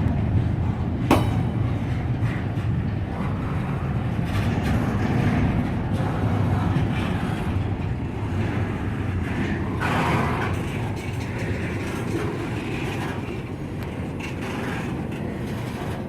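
Freight train cars rolling past, a steady rumble of steel wheels on rail that slowly eases off, with one sharp clank about a second in.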